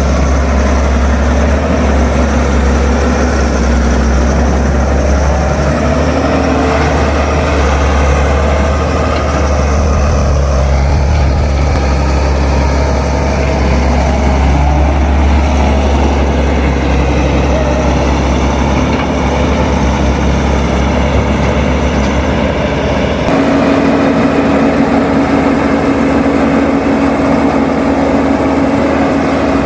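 Heavy diesel engine of construction machinery running steadily. About three-quarters of the way through the sound changes abruptly to a steadier drone with a clear tone.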